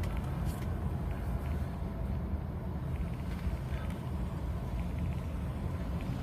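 A car driving along, its engine and tyres making a steady low rumble.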